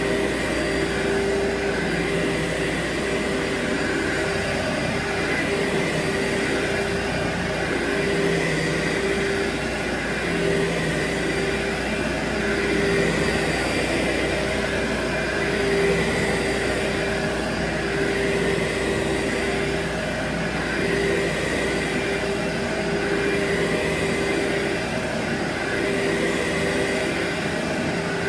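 Carpet-cleaning machine running steadily on carpet, its pitch rising and falling about every two and a half seconds as it is worked back and forth. A pressure washer runs in the background, adding a steady hiss.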